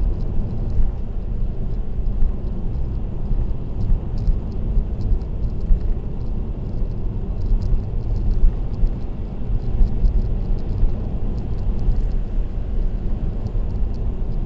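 Steady road noise of a car cruising on an expressway: a low, even rumble of tyres and engine.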